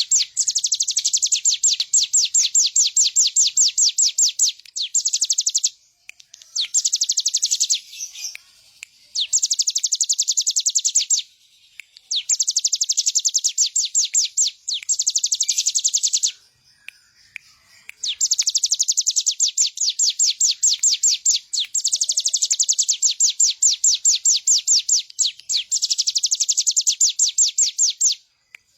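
Ciblek gunung, a prinia, singing hard: long bouts of rapid, evenly repeated high notes lasting a few seconds each, broken by short pauses.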